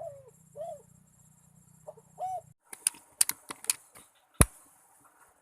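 Spotted dove cooing: short arched notes at the start and again about two seconds in. These are followed by a quick run of sharp clicks and knocks, ending in one loudest, heavier crack a little before the end.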